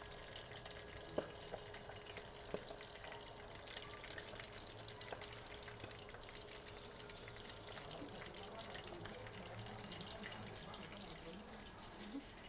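Chicken frying in hot oil, a steady crackling sizzle, with a couple of sharp knocks in the first few seconds.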